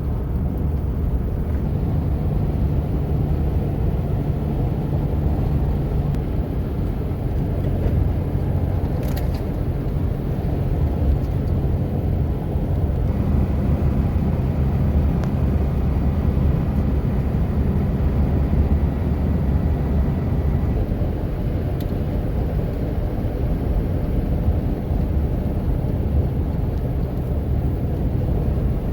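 Toyota 4Runner driving, a steady low engine and road rumble, with a brief click about nine seconds in.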